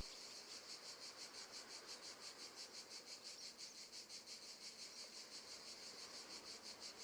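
Faint, steady cricket chirping: an even pulse of high chirps, about six a second.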